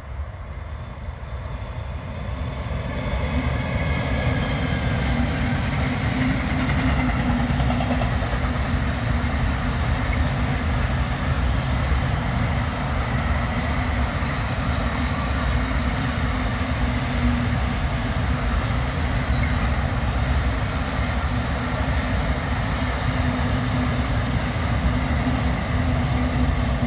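Electric-locomotive-hauled intermodal freight train of truck trailers on pocket wagons passing close by. The rolling rumble of the wagon wheels on the rails grows louder over the first few seconds as the locomotive approaches, then stays steady as the long string of wagons rolls past.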